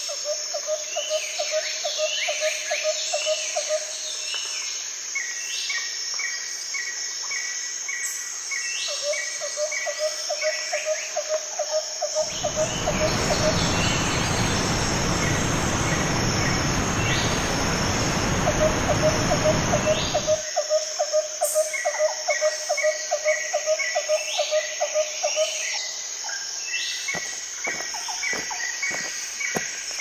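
Woodland ambience of birdsong over a steady high insect drone: runs of short repeated chirps and a fast low pulsing trill that comes and goes. About twelve seconds in, a loud even rushing noise sets in, lasts about eight seconds and cuts off suddenly.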